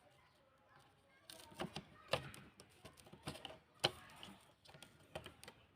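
Irregular sharp clicks and knocks of small hard parts being handled, starting about a second in, with a couple of louder knocks among them.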